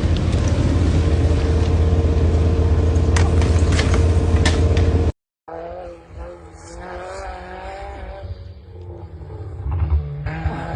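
Loud, steady road-vehicle rumble with a few sharp knocks, cut off abruptly about five seconds in. A quieter recording follows, with a low vehicle rumble and wavering higher-pitched sounds.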